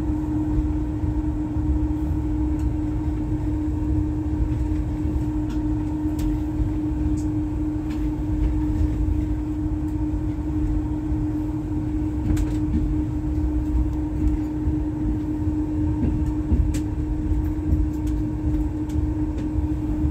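Inside a moving passenger train carriage: a steady low rumble of the running train with a constant hum, and a few faint clicks now and then.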